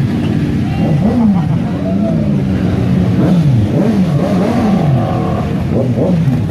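Motorcycle engines revving, their pitch falling and rising again and again, with more than one engine sounding at once.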